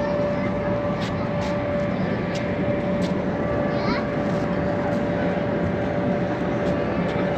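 Steady mechanical drone holding one constant mid-pitched tone, with a few short clicks and faint voices in the background.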